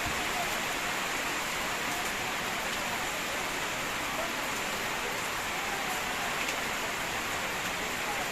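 Heavy rain falling steadily, a dense even hiss of rain with faint individual drop ticks.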